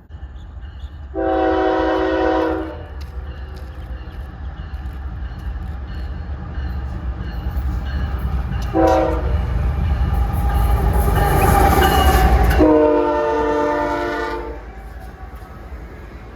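CSX intermodal freight train I003 approaching and passing, its lead diesel locomotive sounding a multi-note horn three times: long, short, then long. Under the horn the rumble of diesel engines and wheels on rail builds to its loudest about three-quarters of the way through, then drops away.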